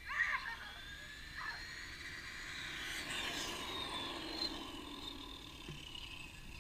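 Electric RC cars' motors whining at full throttle as they race off, a high whine that glides in pitch, swells about halfway through and eases off toward the end.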